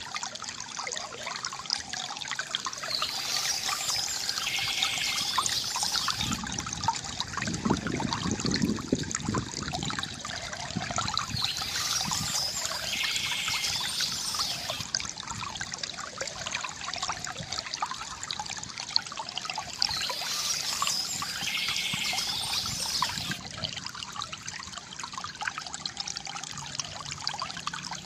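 River water gurgling and trickling steadily, with a deeper gurgle surging about seven to ten seconds in. A higher, brighter sound recurs about every eight and a half seconds, as if the recording is looped.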